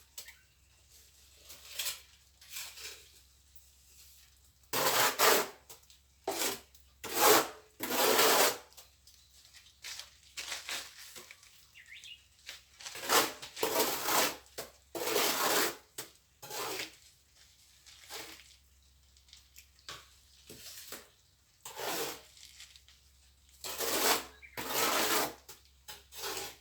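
Steel trowel scraping across wet cement mortar in short, irregular strokes with pauses between them.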